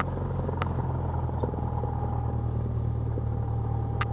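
Cessna 172 piston engine running steadily at low taxi power, a constant low drone, with a faint steady whine above it and a few brief clicks.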